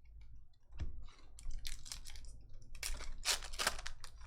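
Trading cards and their packaging being handled: a run of short rustling and scraping noises, loudest about three seconds in.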